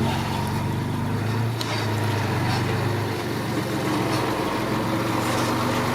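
Bulldozer's heavy diesel engine running steadily in a deep, even drone.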